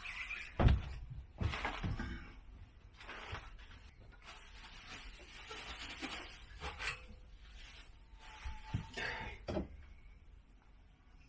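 Parts and tools being handled during motorcycle exhaust work: a series of knocks and clunks, the sharpest about a second in, with rustling and scraping between.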